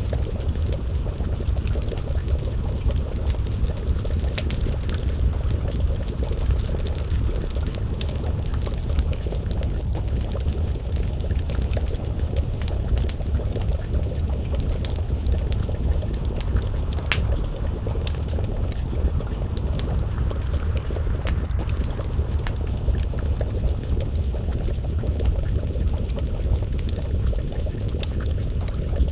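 Wood fire crackling, with scattered sharp pops and snaps over a steady low rumble, mixed with a pot of stew bubbling over the flames.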